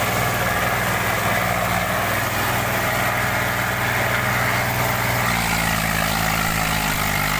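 Tractor diesel engines running steadily under load in a tug-of-war pull; about five seconds in the engine note changes.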